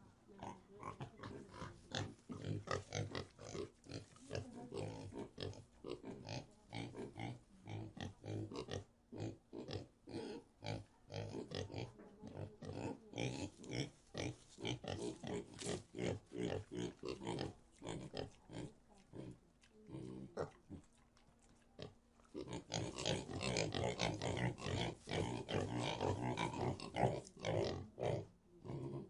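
Pig grunting: a long series of short, rapid grunts, easing off briefly about two-thirds of the way through, then coming back louder and denser near the end.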